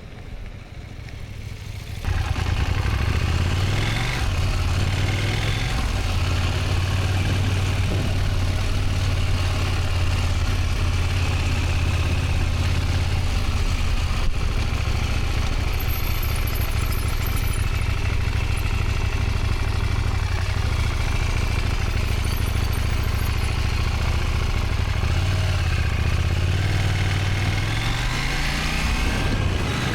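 Motorcycle engine pulling away about two seconds in and running steadily as the bike rides a training exercise, with the engine note dipping and climbing again near the end; wind noise rushes over the microphone throughout.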